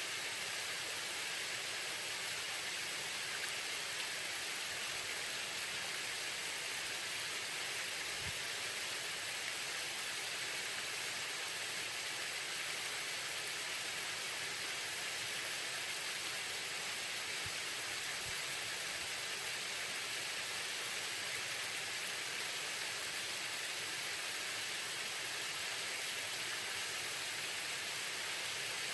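Waterfall: a steady, unbroken rush of falling and splashing water, mostly a bright hiss.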